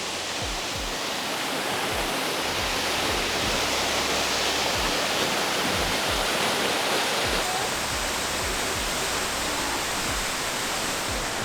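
Waterfall rushing: a steady, even roar of falling water, with a few soft low thumps underneath.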